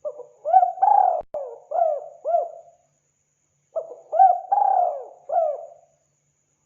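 Spotted dove (tekukur) cooing: two phrases of several low, arching coo notes, the second beginning near the middle, with a brief sharp click about a second in.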